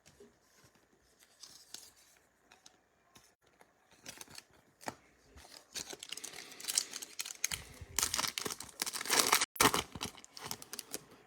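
Foil trading-card pack being torn open, its wrapper crinkling. Faint crackles start about four seconds in and grow into louder, denser tearing and crinkling near the end.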